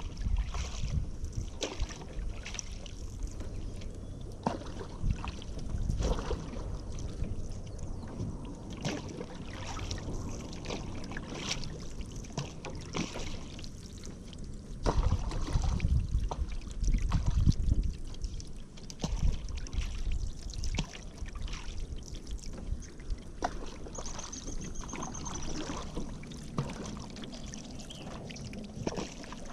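Paddle strokes dipping and splashing in river water, with drips and small knocks against the boat, and a stretch of heavier low thumps about halfway through.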